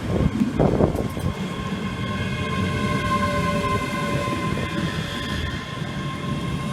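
A train moving at a station platform: a low rumble under a steady high-pitched squeal or whine, with a few louder surges in the first second.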